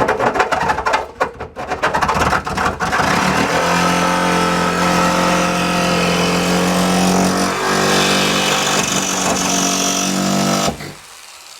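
Electric jigsaw cutting into vehicle body sheet metal: a few seconds of rapid stuttering chatter, then a steady motor whine that stops suddenly near the end.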